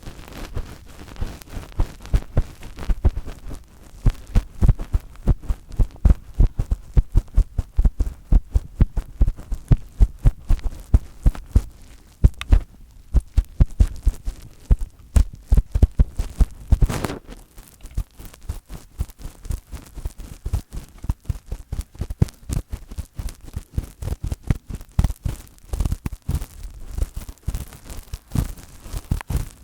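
Fingertips tapping and rubbing directly on a microphone: quick, deep thumps, about three or four a second, with one longer rub about two-thirds of the way through, after which the taps come softer and sparser.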